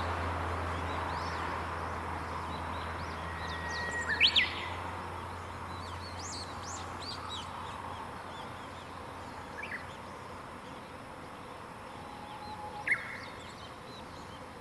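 Wild birds singing and chirping in a mountain morning chorus, with one louder call about four seconds in: a held whistled note ending in a quick sweep. A low steady hum fades away during the first half.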